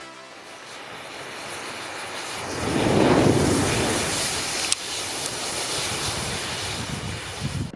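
Matches set in a chain reaction catching fire one after another: a rushing hiss of flaring match heads that builds to its loudest about three seconds in, then burns on steadily. There is one sharp snap about halfway through.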